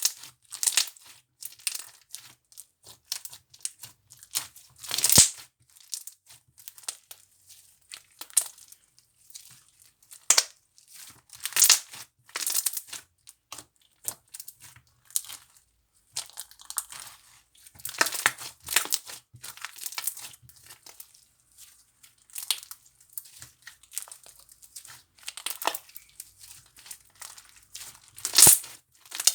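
Slime being squeezed, stretched and pressed by hand, making irregular crinkly crackles and pops, with a few sharper, louder snaps.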